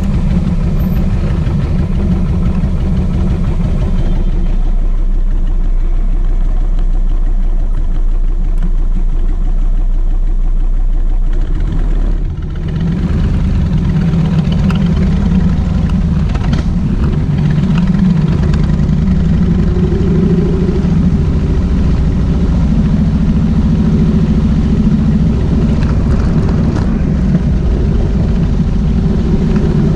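Kawasaki VN1600 Mean Streak's V-twin engine running steadily while the motorcycle is ridden. About twelve seconds in it briefly drops off, as when the throttle is closed for a gear change, then pulls again.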